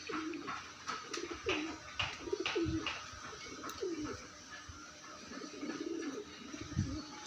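Pigeons cooing: a string of low, swooping coos, with scattered sharp clicks between them.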